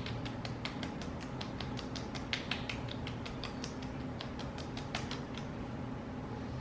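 Fingertips tapping rapidly on facial skin in a face-tapping massage, a quick even patter of light taps, roughly seven a second.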